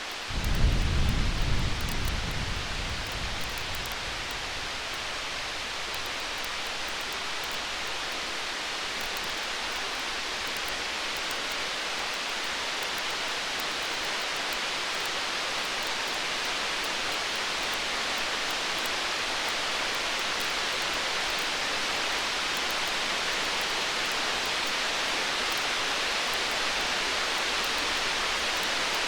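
Distant thunder gives one low rumble about half a second in, fading over about three seconds. Under it runs a steady hiss of rain that grows slightly louder, with faint crackles of a wood fire.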